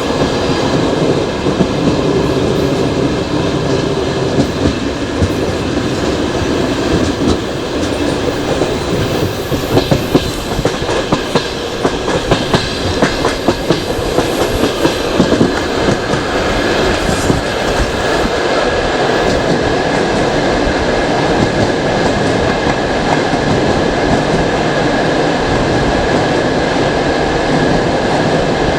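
Passenger train running along the track, heard from the carriage window: a steady rumble with wheels clacking over rail joints, a run of sharp clacks about a third of the way in, and a thin steady high tone throughout.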